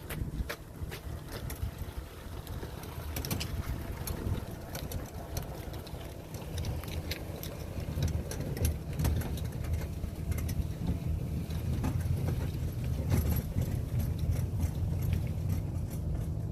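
A car's 2.2-litre engine idling steadily, left running to recharge a weak battery after the car had sat for a long time. Scattered light clicks and knocks sound over the idle.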